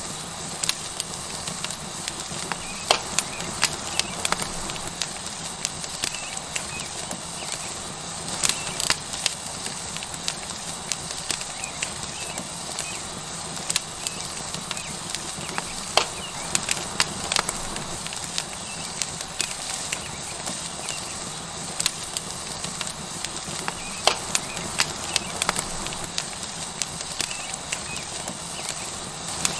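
Tomahawk steak sizzling steadily on a hot rock over a wood fire, with the burning wood crackling and giving irregular sharp pops every second or so.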